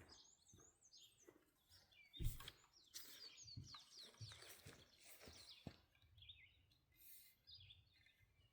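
Faint songbird chirps and trills, several short calls overlapping, with scattered knocks and one louder low thump about two seconds in.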